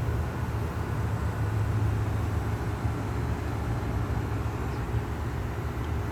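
Steady low rumble with a noisy hiss above it, unbroken and even.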